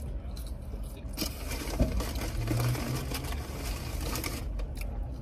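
Close-up crunching and chewing into a crispy fried chicken sandwich: a dense run of crisp crackles that starts about a second in and dies away near the end.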